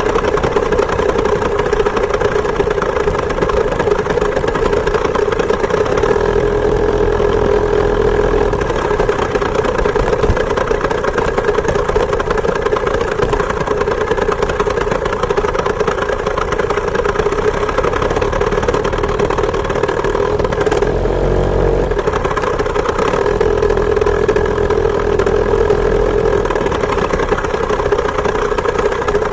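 Two-stroke chainsaw engine driving a homemade moped, running steadily at high revs. Its pitch dips and wavers briefly about two-thirds of the way through, then settles back.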